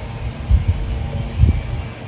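Dull thumps of loose soil being tamped down around a post set in a hole: three low hits, the loudest about a second and a half in, over a steady low rumble.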